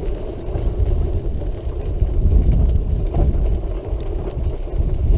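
Low, uneven rumble of a wheelchair rolling along a path, mixed with wind buffeting the microphone.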